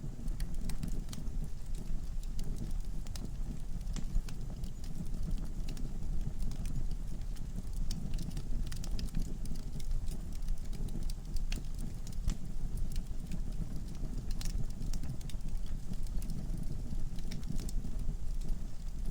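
Wood logs burning in a fireplace, crackling with frequent sharp pops and snaps over a steady low rumble of flame.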